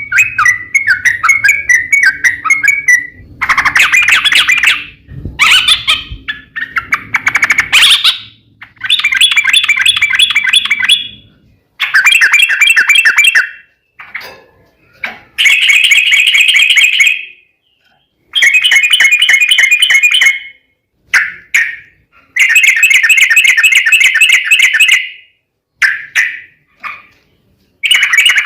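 Yellow-vented bulbul (trucuk) singing in bursts of fast, chattering trills, the long rapid 'ropel' phrases kept by bird hobbyists as a lure to set other trucuk singing. There are about nine loud phrases of one to three seconds each, with short pauses between them.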